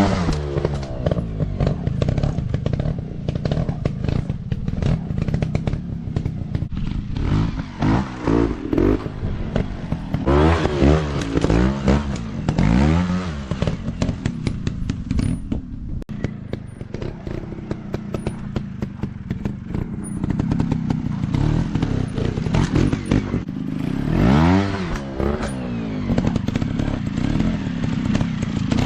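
Dirt bike engine revving up and down again and again as it is ridden, over a steady low engine rumble, with clattering and knocks throughout and a brief drop in sound about halfway through.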